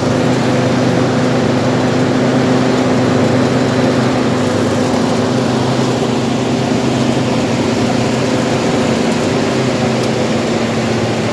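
Combine harvester's diesel engine running steadily at constant speed, with a steady hum and a broad mechanical rush.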